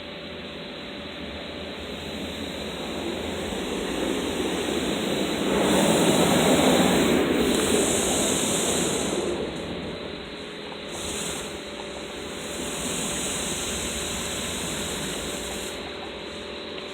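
Automatic car wash machinery heard from inside the car: a rushing hiss of water spray or blown air that swells to its loudest about six seconds in, then eases. High hiss cuts in and out several times.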